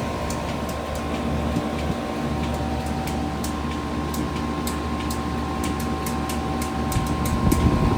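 Heat pump running steadily with a hum and a couple of steady tones, its coil iced up ahead of a defrost cycle; sharp high ticks crackle irregularly throughout. The sound swells briefly near the end.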